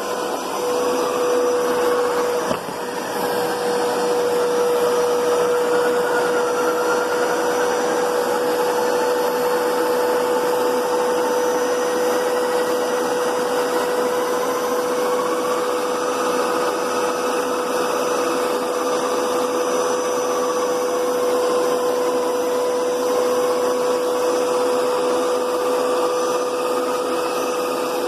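Hoover Powerscrub Deluxe carpet cleaner running steadily, its motor making a constant hum with a higher tone that drifts slowly up and down, and a brief dip about two and a half seconds in.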